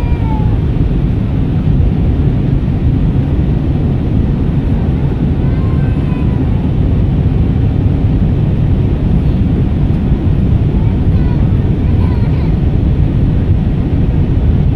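Steady cabin noise of an airliner in flight: the deep, even rush of engines and airflow heard from a passenger seat.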